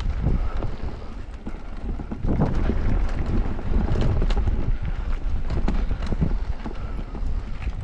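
Wind buffeting a helmet- or bike-mounted action-camera microphone at downhill speed, under the clatter of an electric mountain bike rattling over rough trail. There are frequent sharp knocks and chain slap as the wheels hit roots and rocks.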